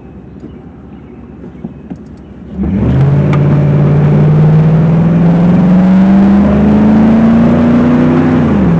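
Truck engine, freshly fitted with a K&N cold air intake, cruising quietly and then put to hard throttle about two and a half seconds in. It pulls loudly with a steadily rising pitch for about six seconds, then the pitch drops near the end as the throttle is lifted or it shifts.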